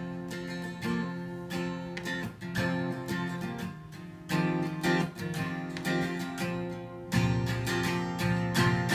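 Acoustic guitar strummed in an instrumental break between sung lines, with a fuller, bass-heavy part joining about seven seconds in.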